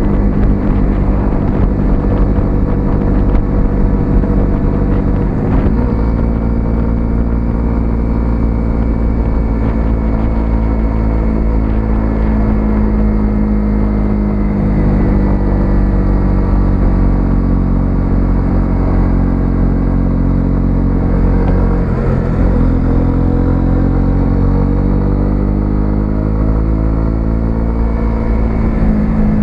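Small single-cylinder 125cc motorcycle engine running under way, its note drifting up and down with throttle, dipping briefly about six seconds in and again around twenty-two seconds before climbing again.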